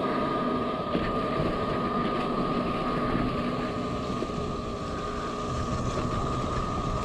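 Yatri P1 electric motorcycle on the move: a steady high whine over road and wind noise.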